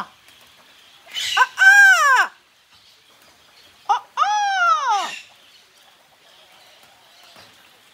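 Yellow-crowned amazon parrot calling twice: each bout is a short note followed by a longer squawk that rises and falls in pitch.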